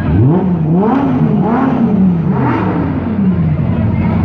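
Supercar engine revving several times in succession, the pitch climbing and falling with each blip of the throttle and then dropping back slowly near the end.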